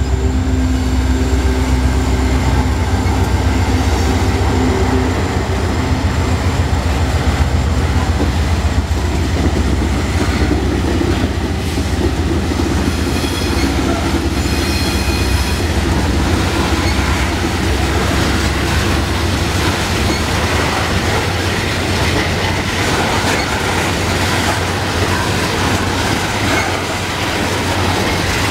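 A GE AC4400CW diesel locomotive passes close under power, its engine drone and a steady low hum heavy at first and fading after several seconds. Loaded coal hopper cars follow, rolling past with a steady wheel-on-rail rumble and clatter, and a brief high wheel squeal about midway.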